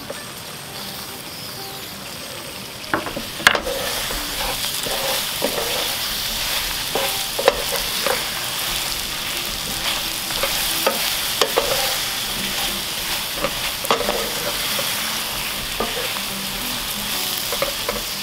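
Soy-glazed baby potatoes sizzling in a pan over high heat, the braising sauce reduced almost to nothing, while a wooden spatula stirs them. The sizzle grows louder about three seconds in, with irregular knocks and scrapes of the spatula against the pan.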